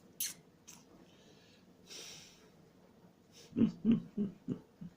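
A man's breathing, with a short sniff near the start and a soft breath out about two seconds in, then about five short, low throat sounds in quick succession near the end.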